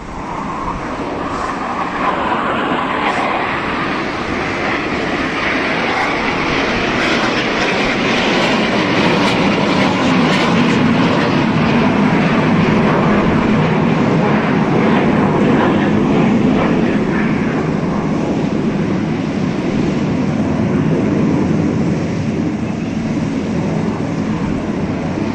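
Jet aircraft flying past with a continuous engine roar. It builds over the first couple of seconds, then holds loud, and its tone deepens as it goes by.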